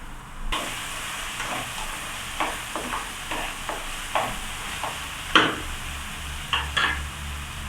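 Onion, garlic, green chilies and tomato sizzling in oil in a frying pan while being stirred, with scattered scrapes and taps of the stirring utensil on the pan and one louder knock about five seconds in.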